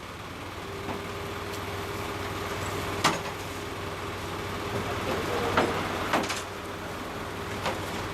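A few sharp knocks, like wooden parts of a danjiri float being fitted together, over a steady mechanical hum with a faint steady tone.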